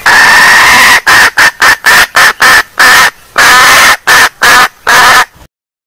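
Junglefowl hen calling, played back very loud as a lure call: one long call, then a quick run of short calls at about four a second, then a few longer calls and short ones before it stops.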